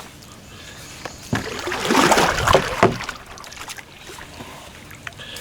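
Water splashing and sloshing with a few sharp knocks against a kayak, loudest about two to three seconds in, as a small catfish on a set line is pulled in.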